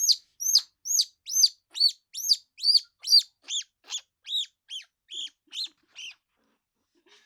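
Baby squirrel about two weeks old calling in a rapid series of high-pitched chirps, about two a second. The chirps grow fainter and lower after about three seconds and stop near the end.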